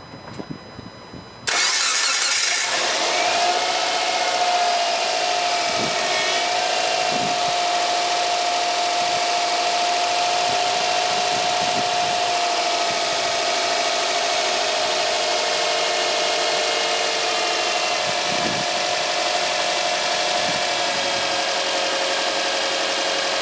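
Subaru Impreza 1.5 flat-four engine comes in suddenly about a second and a half in, then idles with a steady squealing, moaning whine from the power steering that steps slightly lower in pitch near the end. The moan is the sign of air drawn into the power-steering system through a worn rubber ring on the return hose at the pump.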